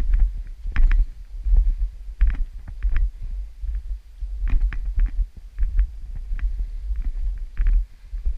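Wind buffeting the microphone with a low, uneven rumble, with irregular crunching footsteps in snow during a descent on foot.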